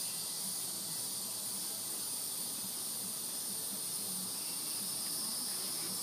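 Steady high-pitched drone of insects in summer, unbroken throughout.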